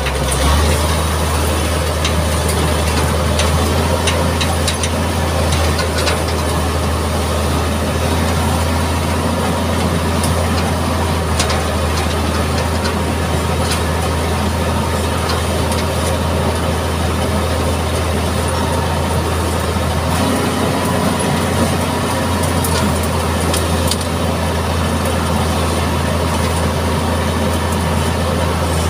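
Mitsubishi MG330 motor grader's diesel engine running steadily with a deep hum, with scattered clicks and knocks over it; the engine note shifts about two-thirds of the way through.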